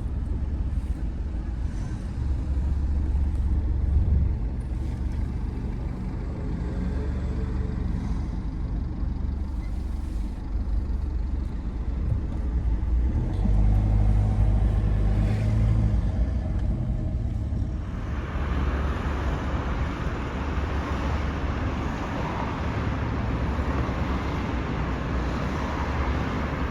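Car driving, with a steady low road rumble. About eighteen seconds in, the sound changes abruptly to a brighter hiss with less rumble.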